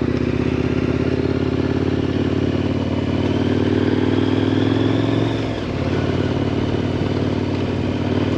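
KTM 1090 Adventure R's 1,050 cc LC8 V-twin engine running steadily under way. Its pitch creeps up slightly, drops about five and a half seconds in, then holds steady.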